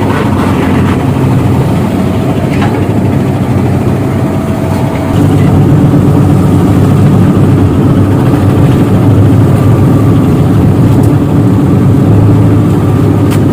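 Tugboat's diesel engine running, a steady low drone that grows louder about five seconds in.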